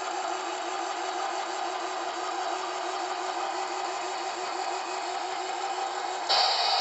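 MTH Bikini Car Wash toy accessory running its wash cycle: a steady mechanical whir with a fast, even pulsing. Near the end a louder steady hiss cuts in abruptly.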